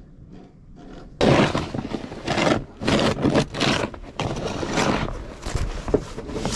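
Snow shovel scraping and pushing snow along pavement in a series of strokes, starting suddenly about a second in.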